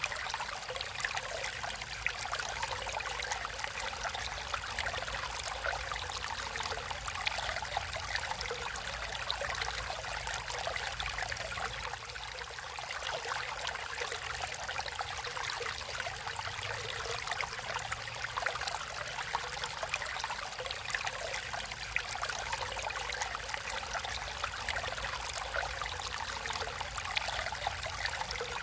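Water flowing in a small stream, a steady babble and trickle over rocks.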